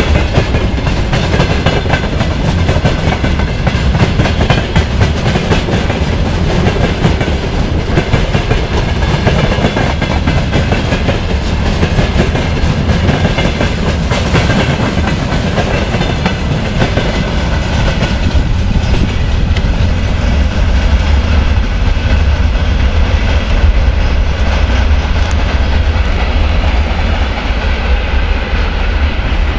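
Covered hopper wagons of a freight train rolling past, wheels clattering steadily over the rail joints. Over the last several seconds the sound dulls and loses its treble as the tail of the train moves away.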